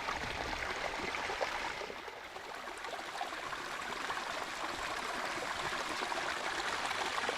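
Spring water running and splashing steadily, with a dip in level about two seconds in.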